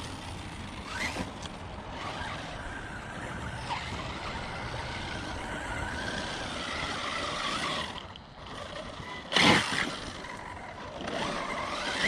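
Brushless electric motor of an Arrma Notorious RC monster truck, a Spektrum 1250kv, whining faintly and rising and falling in pitch as the truck drives at a distance. A single loud thump comes about nine and a half seconds in.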